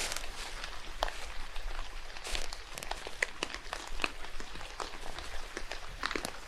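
Rain falling in a forest: a steady hiss with many irregular drops tapping on leaves and the ground.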